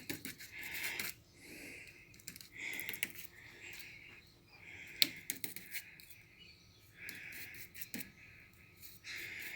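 Faint, short scratchy strokes of a paintbrush dabbing and scrubbing paint into a wet plaster surface, repeated in bursts, with a couple of sharp clicks.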